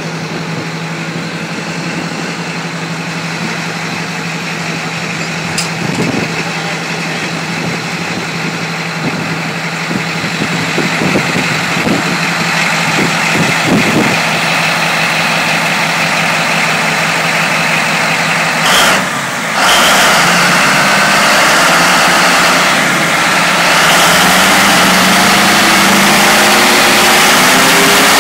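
Cat 789C haul truck's 3516B 16-cylinder quad-turbocharged diesel engine running, growing gradually louder. About nineteen seconds in the sound briefly drops, then comes back louder and steadier. Near the end the pitch rises as the engine speeds up.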